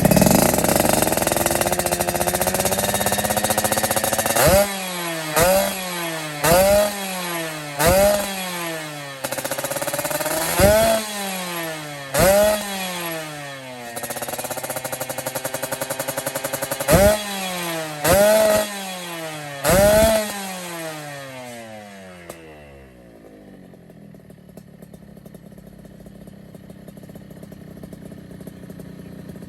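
Motorcycle engine breathing through an Ahau 1 Telo 3V3 Cobra aftermarket exhaust, revved in about nine sharp throttle blips, each pitch jumping up and falling away, then settling to a quieter idle for the last several seconds.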